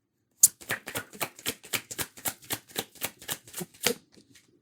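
Tarot cards being shuffled by hand: a quick, even run of card slaps and clicks, about four a second, stopping near the end.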